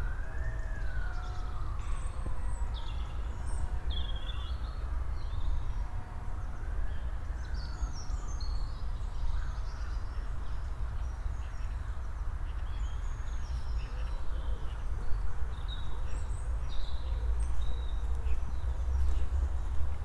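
An emergency vehicle siren wails, rising and falling about three times over the first seven seconds. Small birds chirp throughout over a steady low rumble.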